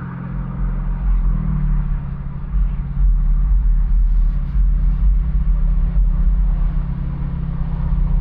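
Car engine running at low revs, a steady low rumble that shifts slightly in pitch about a second in.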